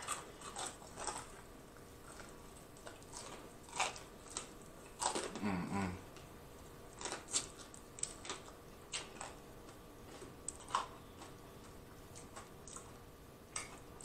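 Close-miked chewing and biting into crispy fried chicken wings: irregular crunches and wet mouth clicks. A brief hum of the voice comes about five seconds in.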